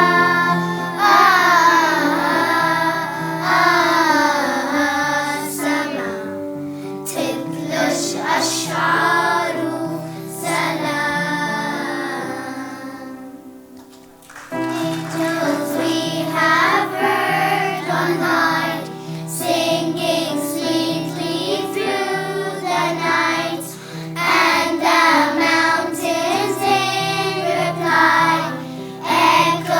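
Children's choir singing a song with instrumental accompaniment; the music fades to a brief pause about halfway through and then starts again.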